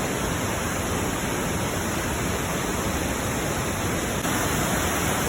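Waterfall cascades rushing: a steady, unbroken roar of falling white water.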